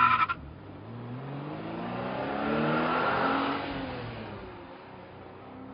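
A motor vehicle passing by: its engine grows louder and rises in pitch, peaks about three seconds in, then drops in pitch and fades. A brief, loud, high-pitched sound comes at the very start.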